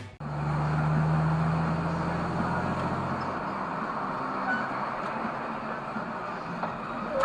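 Car driving on the road: a steady low engine hum over road and tyre noise, the hum fading about three and a half seconds in.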